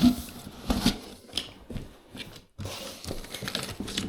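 Cardboard box and packing material being opened and rummaged through: irregular rustling, crinkling and light knocks, with a brief pause about two and a half seconds in.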